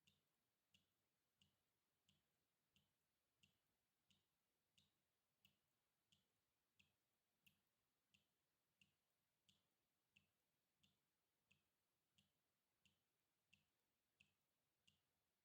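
Water drips falling one at a time in a steady, even rhythm, about three drips every two seconds, each a short, very faint plink.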